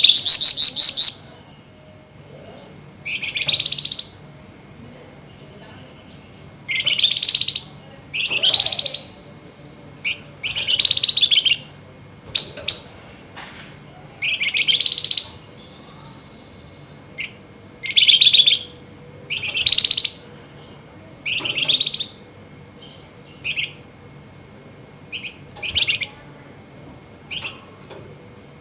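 A flamboyan songbird giving its harsh, high, chattering 'nyerecet' song in short bursts, repeated every one to three seconds.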